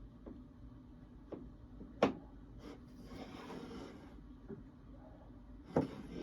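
Sparse handling noise in a quiet room: a few sharp knocks, the loudest about two seconds in and again near the end, with a brief rustle between them.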